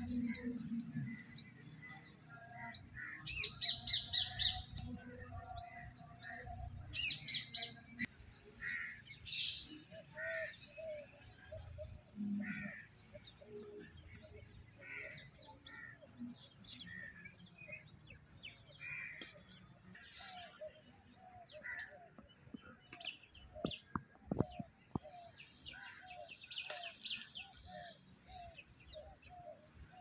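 Several birds chirping and calling, with a run of short repeated calls about two a second in the last third. A few brief knocks about two-thirds of the way in.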